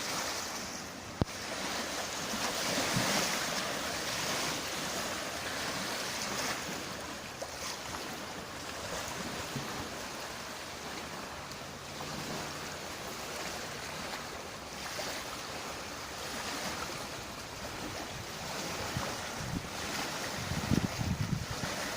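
Waves splashing on a bay with wind blowing over the water, swelling and easing every few seconds. Wind buffets the microphone with a low rumble near the end.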